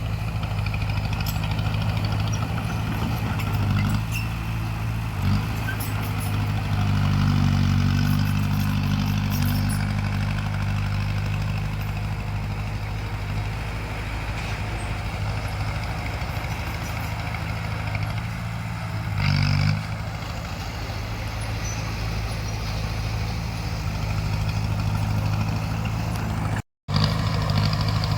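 Bulldozer's diesel engine running under load, swelling louder for a few seconds about seven seconds in. Short knocks come about five seconds in and near twenty seconds, and the sound drops out for a moment near the end.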